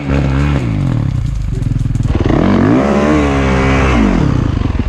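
Dirt bike engine revving hard twice, its pitch rising and falling each time, with the engine running lower between the revs.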